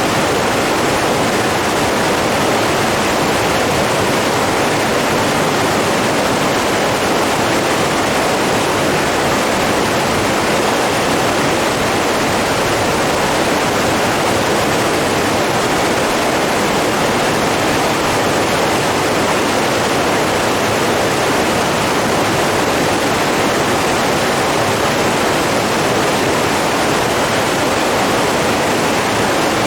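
Steady rush of running water, loud and even, with no rise and fall.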